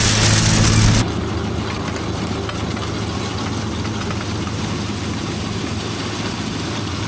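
A vehicle engine idling steadily. About a second in, a loud high hiss stops abruptly and the engine sound drops to a quieter, steady idle.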